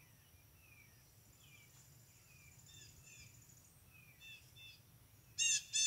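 Faint outdoor background of small birds chirping, short falling chirps repeated every half second or so, with a louder call near the end.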